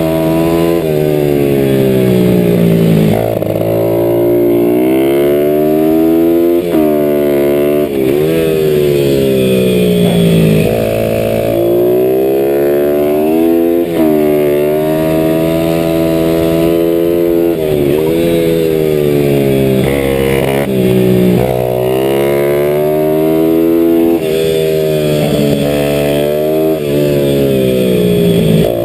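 Small motorcycle (pit bike) engine under hard riding, heard onboard. It revs up repeatedly with quick drops in pitch at the gear changes, falls away into the corners and pulls up again.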